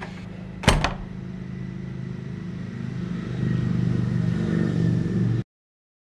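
A loud bang less than a second in, then an engine running steadily and growing louder. It cuts off abruptly.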